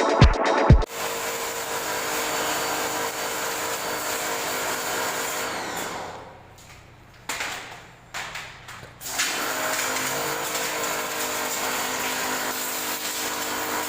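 A small electric machine running steadily with a whine, fading out and stuttering on and off for a few seconds in the middle before running steadily again.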